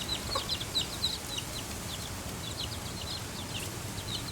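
Baby chicks peeping: a steady stream of short, high peeps, each falling in pitch.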